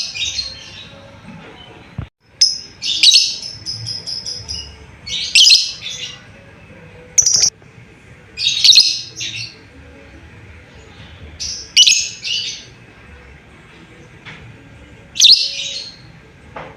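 Lovebird giving short bursts of shrill chattering chirps, repeated every two to three seconds. One burst, about three seconds in, runs on into a held high trill.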